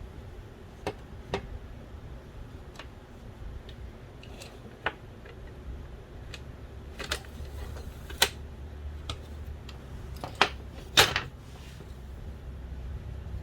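Scattered clicks and light knocks of small plastic and metal parts from a Philips DVD drive being handled during disassembly, with a louder clatter about ten to eleven seconds in.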